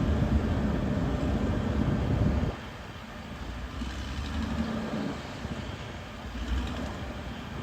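Diesel engine of heavy earthmoving machinery running under load. It is a low rumble that drops noticeably in level about two and a half seconds in.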